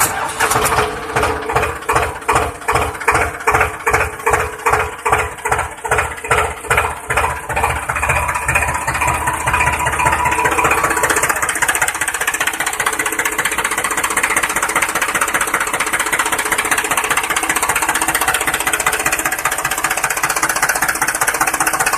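Tractor-style diesel engine chugging in slow, even beats about twice a second, then picking up speed into a steady run about halfway through.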